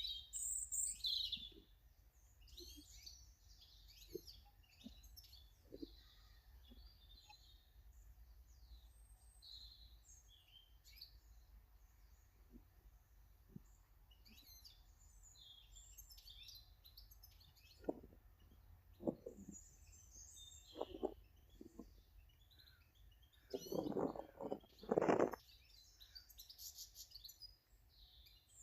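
Small garden birds chirping and calling, with many short high chirps throughout. Scattered soft knocks and taps come with them, the loudest a pair of thumps about three-quarters of the way through.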